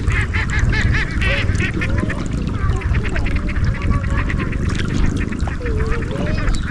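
Ducks quacking in a rapid, overlapping chatter over the steady rush of a river.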